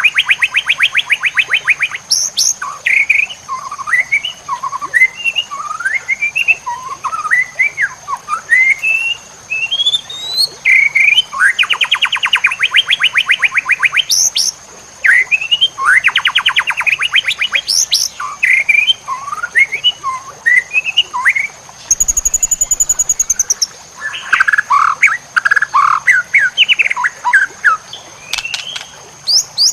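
White-rumped shama singing a varied song: many quick rising whistled notes broken up by fast rattling trills, over a steady high thin tone. A short, different burst of sound comes about two-thirds of the way through.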